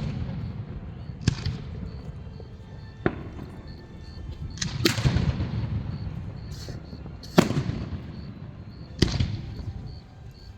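Aerial fireworks shells bursting overhead: five sharp booms a couple of seconds apart, each trailing off into a low rumble.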